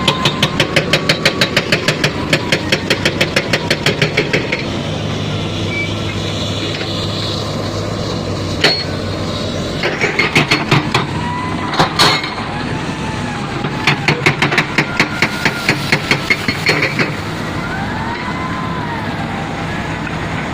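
Diesel engine of heavy construction machinery running steadily, with three spells of rapid hammering knocks, about four to five a second, and a few single sharp knocks between them.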